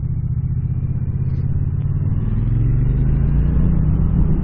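2017 Triumph Street Cup's 900cc parallel-twin engine running on its stock exhausts while riding, with a steady note that grows a little louder from about halfway through.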